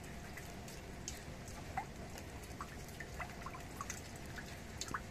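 Rain dripping: single water drops plinking at irregular times, about two a second, over a steady background of falling rain.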